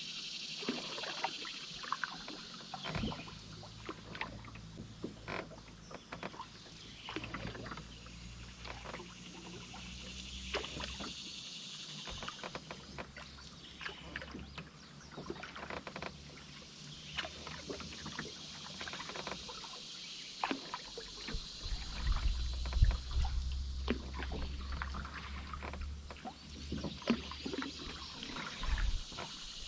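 Canoe under paddle: paddle strokes in the water with trickling drips and many small knocks and clicks of the paddle and gear against the hull. There are a few dull low thumps, heaviest about two-thirds of the way through.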